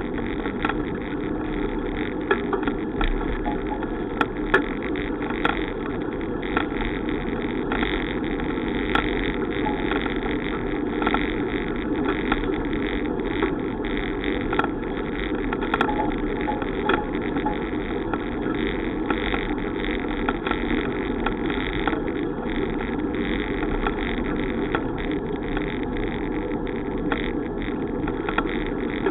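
Steady rushing wind and road noise while riding a bicycle, dotted with frequent small clicks and rattles.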